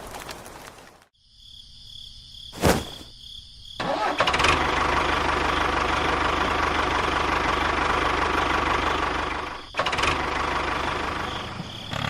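A sharp click, then a motor or engine starts about four seconds in and runs steadily, with a brief break near the end.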